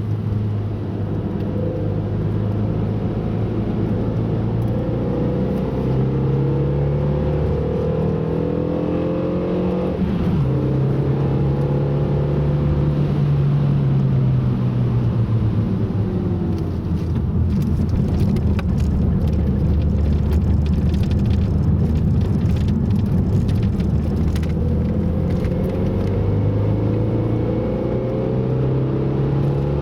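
Car engine during a fast lap: revs climb through a gear, drop sharply at an upshift about ten seconds in, ease off for a while, and climb again near the end. Some short clicks sound over the engine in the middle stretch.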